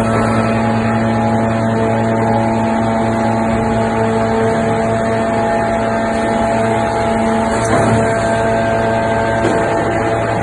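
A large hydraulic forging press's power unit running with a steady droning hum, with a brief knock about eight seconds in.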